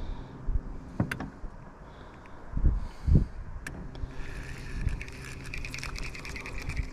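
Two dull knocks on a small fishing boat, then from about four seconds in a steady high whine with light rattling from its electric trolling motor.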